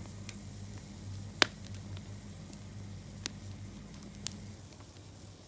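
Wood fire burning, crackling with three sharp pops and a few fainter snaps, over a low steady hum.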